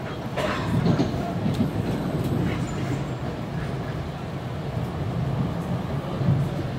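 Metro-North commuter train heard from inside the passenger car while running: a steady low rumble of wheels on rail, with a few short clicks and knocks.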